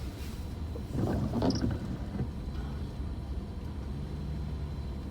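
Steady low rumble of a car's engine and road noise heard inside the cabin, with a brief louder rushing noise about a second in that fades out within a second.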